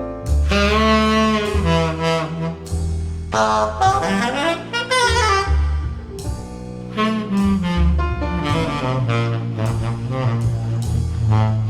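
Tenor saxophone playing a slow jazz ballad phrase over low bass notes: a recorded track played back through ATC SCM 11 bookshelf loudspeakers and picked up by a microphone in the room.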